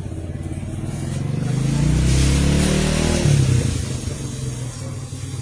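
A motor vehicle's engine passing by, growing louder to a peak a couple of seconds in and then fading away.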